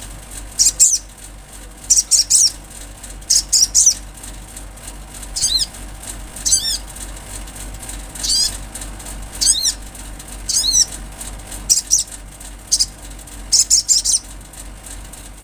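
A sogon, a small sunbird-family bird, singing actively: short, high, thin sweeping notes given in quick clusters of two to four, repeated every second or two, over a steady low hum.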